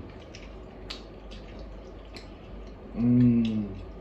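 Wet chewing and lip-smacking clicks of people eating barbecued meat, with a short hummed "mmm" that falls in pitch about three seconds in.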